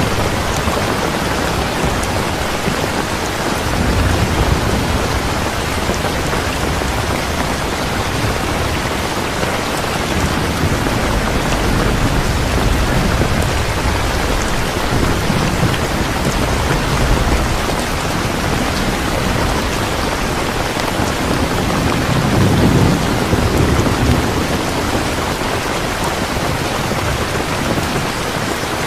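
Steady heavy rain, with swells of low rumble a few seconds in and again about two-thirds of the way through that are typical of distant thunder.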